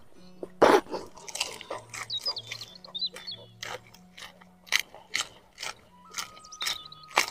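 A bite into a crisp raw vegetable, with a loud crunch about a second in, followed by steady crunchy chewing, two to three crunches a second. Birds chirp in the background.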